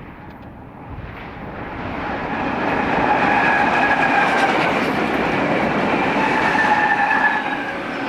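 BNSF diesel-led intermodal freight train approaching and passing, its engine and wheel rumble growing louder over the first three seconds and then holding steady. Clickety-clack of the wheels on the rail joints, with a few steady high-pitched tones over the noise.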